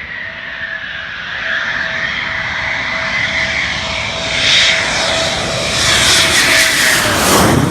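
Military jet aircraft passing close by: a steady engine whine grows louder, then the pitch drops sharply as it goes past near the end.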